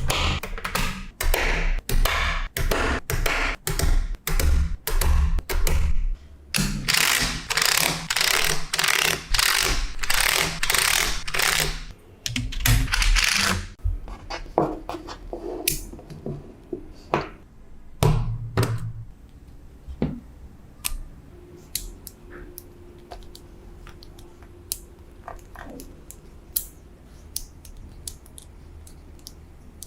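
Small magnetic balls clicking as they snap together: a quick run of sharp clicks, then several seconds of dense rattling as many balls shift against each other, then scattered single clicks.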